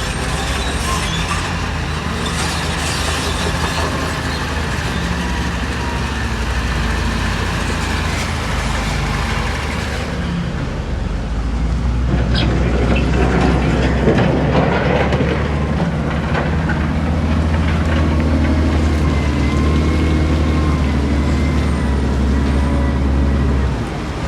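Heavy diesel construction machinery running steadily with a low engine drone; the sound shifts about ten seconds in and grows louder from about twelve seconds.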